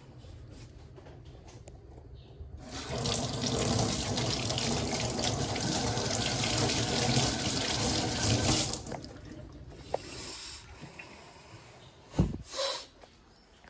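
Kitchen tap running into the sink for about six seconds, then turned off. A few short knocks follow near the end.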